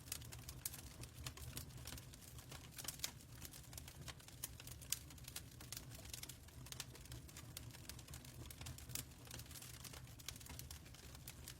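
Fireplace crackling, faint: irregular small pops and snaps over a low steady rumble.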